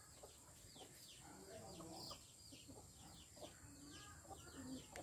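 Faint birds chirping: short, high, falling chirps repeating about three times a second, with scattered lower clucking calls underneath.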